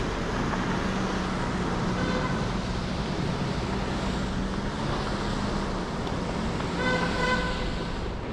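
Steady city street traffic noise with a low engine hum. A car horn gives a brief toot about two seconds in and a louder honk near the end.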